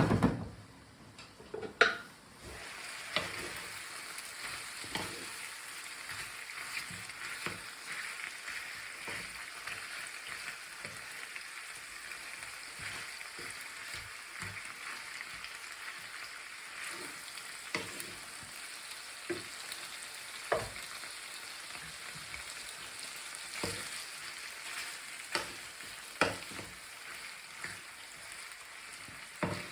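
Food frying in a pan. After two loud knocks at the start, a steady sizzle begins about two seconds in, with sharp knocks of a utensil against the pan every second or few as it is stirred.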